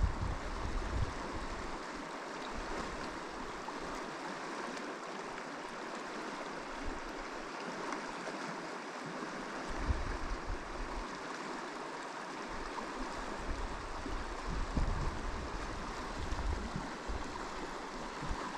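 Steady rush of river water flowing over rocks, with a few low rumbles of wind on the microphone.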